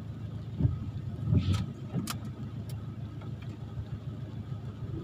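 Car engine idling, a steady low hum heard from inside the cabin, with a few short sharp taps in the first half.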